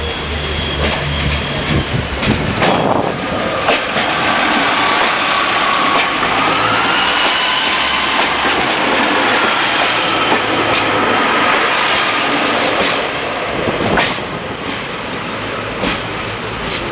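Diesel passenger train rolling slowly past close by, wheels clattering over the rail joints with a few sharp clanks. A wavering high squeal from the wheels runs through the middle, and the loudest clank comes near the end.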